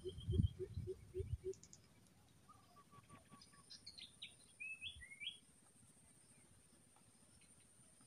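Birds chirping faintly in the background, a scatter of short chirps and whistled notes around the middle, over a faint steady high whine. In the first second and a half a quick run of soft low pulses dies away.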